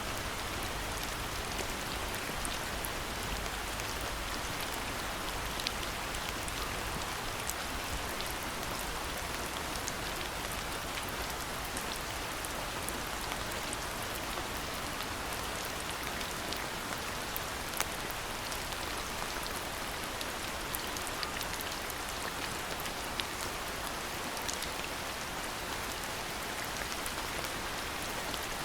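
Steady rain falling, an even patter of rain on surfaces with scattered individual drops ticking through it.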